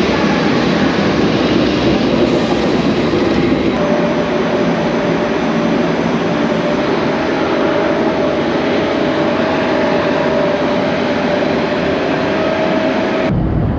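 Train noise in a railway station: a steady loud rumble and hiss of rolling stock, with a steady whine joining about four seconds in. The sound changes abruptly near the end.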